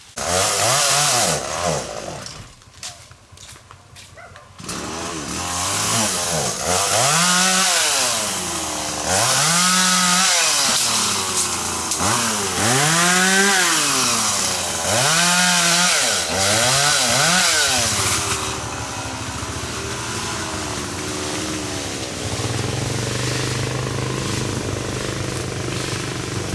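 Chainsaw engine revved up and down in repeated bursts, its pitch rising and falling each time, then settling to a steadier low running for the last several seconds.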